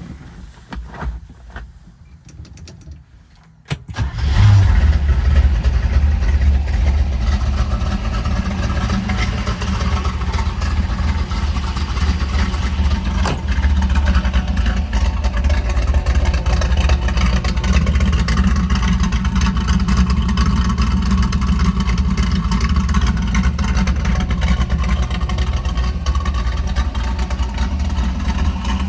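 1967 Camaro Z/28's 302 small-block V8 starting: a few clicks, then the engine fires about four seconds in and settles into a loud, steady idle with a deep low rumble.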